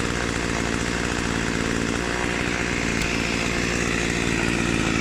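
Spear & Jackson two-stroke petrol chainsaw engine running steadily at an even speed. It now runs spot on, its fuel priming restored after a repaired fuel line and carburettor.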